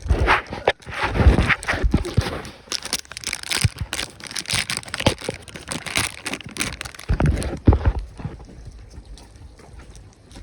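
Irregular rustling and crinkling with scattered sharp knocks, dying down after about eight seconds.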